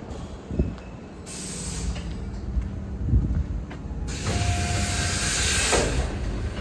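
Tobu 8000 series electric train standing at the platform after arriving, releasing compressed air in hisses under a low rumble. There is a short hiss about a second in, and a longer, louder one about four seconds in that lasts about two seconds.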